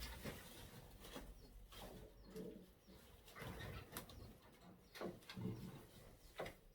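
Faint low calls of caged aviary birds, several of them, with scattered light clicks and knocks.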